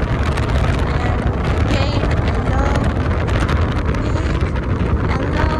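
Steady road rumble and wind noise of a moving car.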